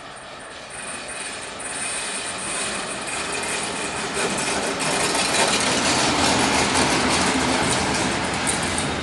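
An electric-locomotive-hauled push-pull regional train, a DB Class 143 at the head, rolls in along the platform. Its rolling noise grows steadily louder as it nears. A thin high whine fades about four seconds in, and then a run of wheel clicks over rail joints and points follows as the locomotive passes close by.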